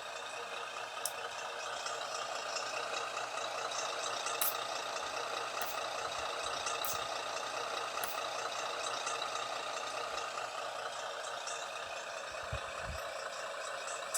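GT Power sound module in a Hercules Scania R620 RC truck playing a simulated diesel truck engine running steadily through its small speaker, thin with little bass and swelling slightly in the middle. A few sharp clicks sound over it.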